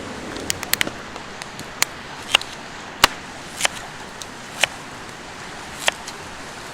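Scattered sharp knocks and clicks of cooking gear and ingredients being handled, a cluster of quick ones about half a second in, then single knocks every second or so. Beneath them the steady rush of a river.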